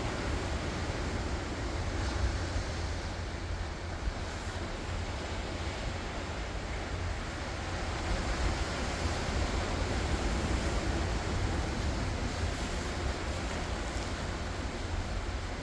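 Ocean waves breaking and washing in steadily, with wind rumbling on the microphone.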